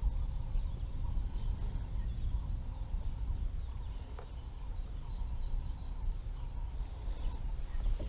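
Outdoor ambience: a steady low rumble with faint, distant bird calls now and then, and a single small click about four seconds in.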